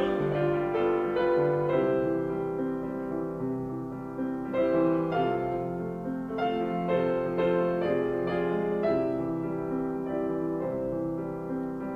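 Solo piano accompaniment in a classical style playing an instrumental passage: struck chords and a melody line, each note ringing and fading, with no voice.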